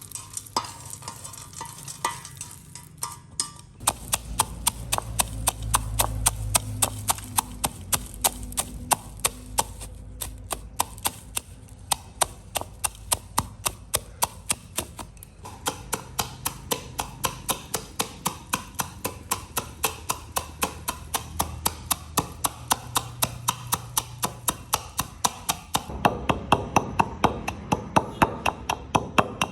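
Steady rhythmic knocking, about three sharp strokes a second, starting a few seconds in and keeping an even beat, with a low rumble underneath at times.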